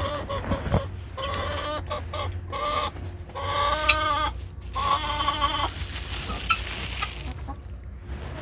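Chickens clucking, with several drawn-out calls in quick bouts over the first six seconds, then quieter.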